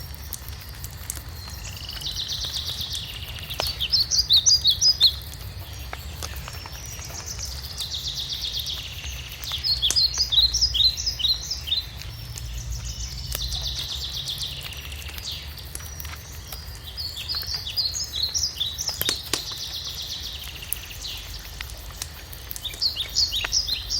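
A songbird singing the same phrase about every five seconds, each time a buzzy run followed by a quick string of sharper notes, over a wood fire crackling with scattered small pops and a steady low rumble.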